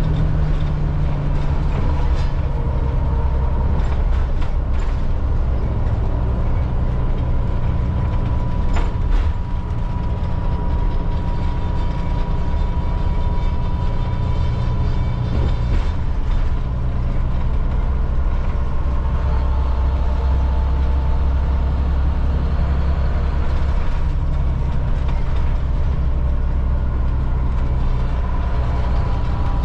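Cat C7 diesel engine of a 2005 Blue Bird All American FE school bus running, a deep steady rumble with a thin high whine over it. A few short rattles come through in the first ten seconds.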